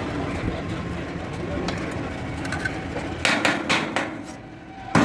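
A quick run of four sharp knocks a little past three seconds in, and one more at the very end, over a steady background din.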